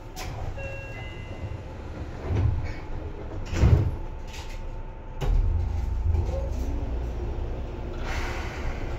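Seibu 2000 series electric train car heard from inside, with steady running noise and rumble. A sharp knock comes about five seconds in, and a heavier low rumble follows it.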